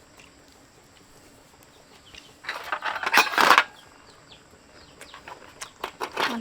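A chicken squawks briefly about halfway through, followed by a few short light clicks near the end.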